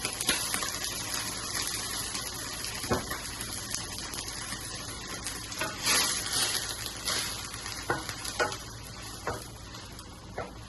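Sauce sizzling in a hot pan just after white wine is poured in to deglaze it, the wine's alcohol cooking off, with a few knocks of a utensil on the pan.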